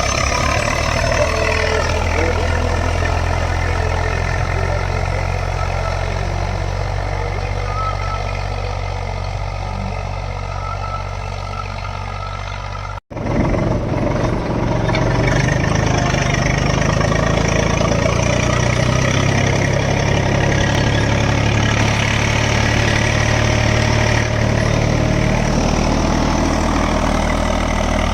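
Eicher 485 tractor's 45 hp diesel engine running steadily under load, pulling a two-bottom mouldboard plough. The sound eases off slightly, cuts out for a split second about halfway, then carries on steady.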